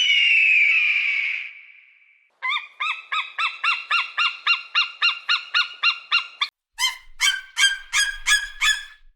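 Bird-of-prey calls: one long, descending scream, then a rapid run of sharp repeated notes at about five a second, and after a short pause a second, harsher series of about eight notes.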